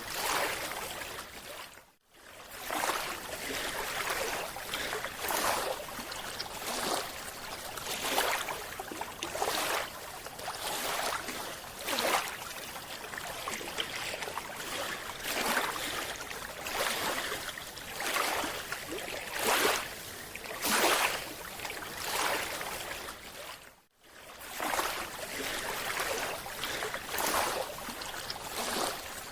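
Underwater sound of a scuba diver breathing through a regulator: a noisy rush of air and bubbles that swells about every second and a half. It breaks off briefly twice, about 2 seconds in and again near the end.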